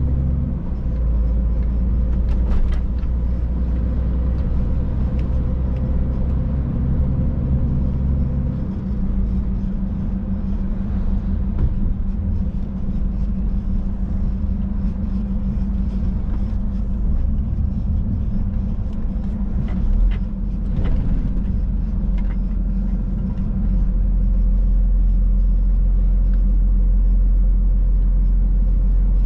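Scania Next Generation truck's engine and road noise heard from inside the cab while driving: a steady low drone whose note changes about nine seconds in and again near the end.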